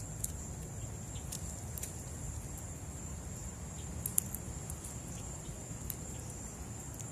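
Steady high-pitched insect drone over a low background rumble, with scattered light clicks, a couple of them sharper about four seconds in.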